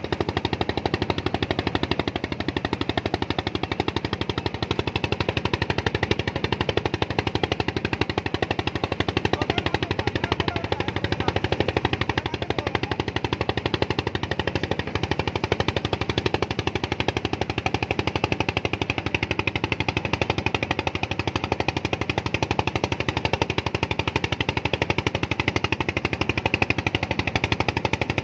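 An engine running steadily, with a rapid, even pulsing chug.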